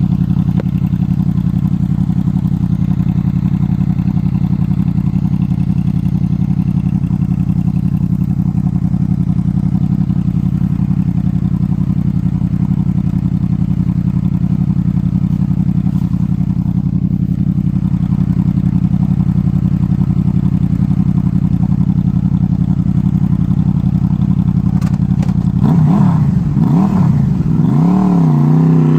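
2003 Honda VFR800's V4 engine through a Black Widow aftermarket exhaust, idling steadily, then revved up and down a few times near the end.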